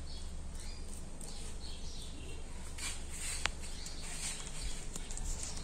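Faint bird chirps over a low steady hum, with one sharp click about three and a half seconds in.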